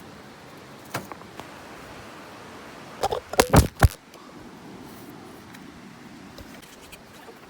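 Rocks being moved and dropped: a single knock about a second in, then a quick run of loud knocks and clatters about three seconds in.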